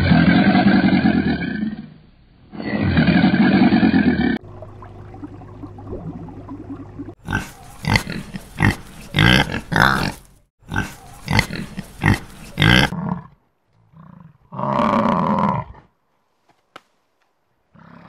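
A run of animal calls. It opens with two long, deep roars. Then comes a quick series of piglets' short, sharp squeals and grunts, and one more call near the end.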